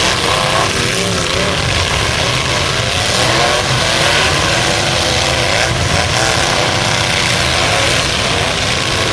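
Several full-size pickup trucks' engines revving and running together in a demolition derby heat: a loud, steady din of overlapping engines whose pitch keeps rising and falling.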